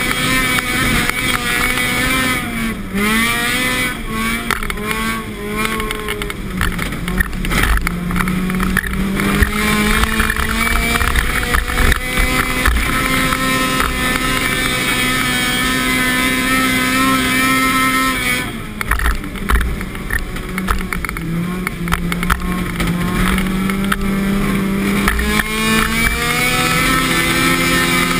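Car engine running hard under load, its pitch rising and falling with the throttle as the car is driven sideways with rapid counter-steering; the revs drop sharply about three seconds in and again around two-thirds of the way through, then climb back.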